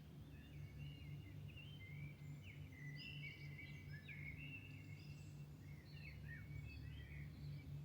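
Several songbirds singing at dawn in a string of short, varied warbled phrases and trills, faint, over a steady low hum.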